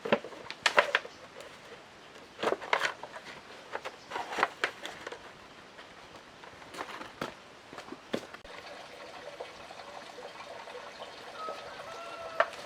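A series of sharp knocks and clatters, then from about eight seconds in a steady sound of running, trickling water.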